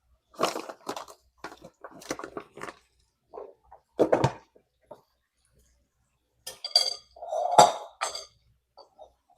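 Dishes and utensils being handled and put away during kitchen clean-up: irregular knocks and clatters, with a louder cluster of ringing metal-and-dish clinks about three quarters of the way through.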